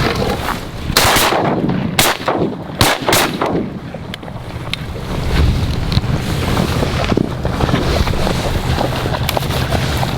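Several shotguns firing at ducks, about four blasts in quick succession in the first few seconds, followed by wind buffeting the microphone.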